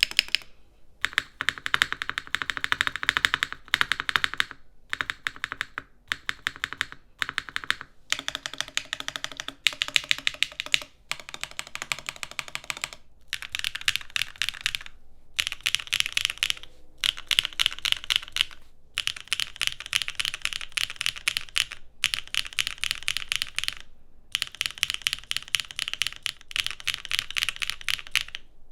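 Steady fast typing on a Neo80 mechanical keyboard fitted with HMX linear switches: dense runs of key clacks, split into short takes by brief silences every few seconds.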